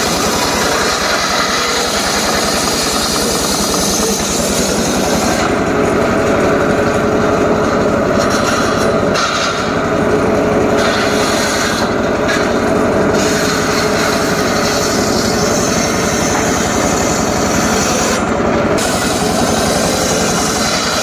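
Homemade circular saw running and cutting through jowar (johar) logs: a continuous, loud saw-and-motor noise with a fast steady pulse underneath. The high hiss eases off briefly a few times.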